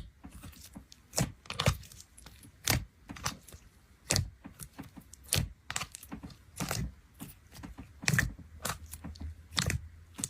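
A series of irregular sharp clicks and taps, about one or two a second.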